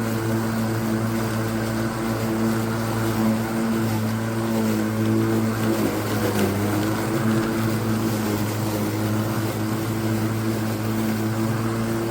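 Battery-powered cordless electric lawn mower running steadily while being pushed: an even motor hum with a whine.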